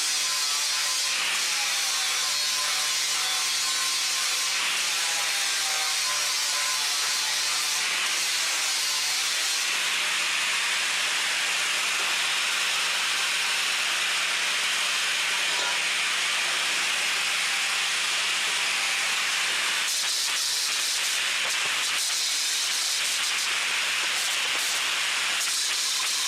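Steel being ground with an abrasive linisher, a steady harsh hiss of abrasive on metal, dressing chamfers on steel plate and RSJ edges as weld prep. The sound shifts about ten seconds in and again about twenty seconds in.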